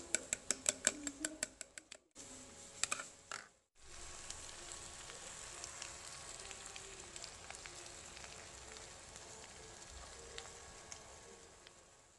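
A fork beating raw eggs in a bowl, about six quick clicks a second. After a short break the beaten eggs go into a frying pan of green beans and potatoes and sizzle gently over low heat, with scattered small pops, fading near the end.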